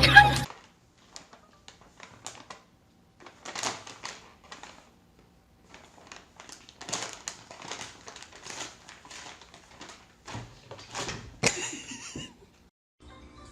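Irregular small clicks, taps and rustling that come in clusters, with a louder burst of noise near the end.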